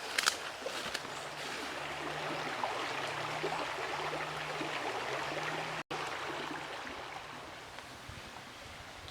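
Steady rushing of flowing river water, with a faint low hum underneath for most of it and a few light clicks near the start; the sound drops out for an instant a little before the end.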